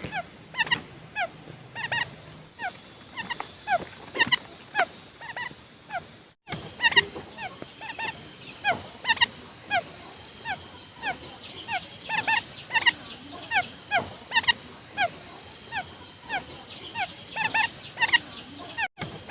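Quail calling: a rapid, continuous series of short, high notes that each slide downward, several overlapping at once. There is a short break about six seconds in.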